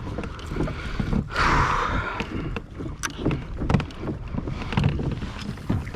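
Water sloshing and splashing against a kayak's hull as it moves through the sea, with a louder rush of water about a second and a half in.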